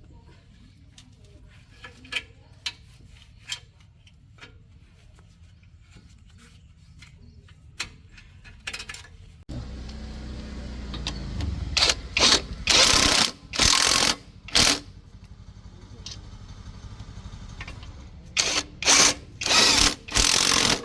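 Power tool, air-driven by the sound of it, running in several short bursts of about a second each over a low steady rumble, with a few light metal clicks in the quieter stretch before it.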